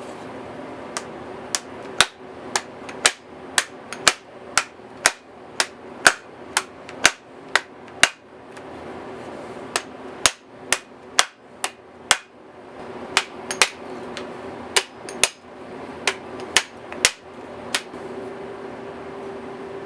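Hammer blows in a workshop, struck about twice a second in three runs with short pauses between them.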